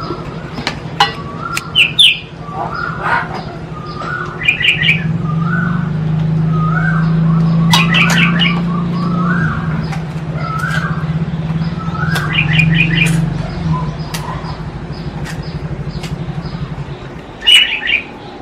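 Birds chirping in short repeated notes, with quick bursts of higher calls now and then, over a low steady hum that swells in the middle and stops near the end.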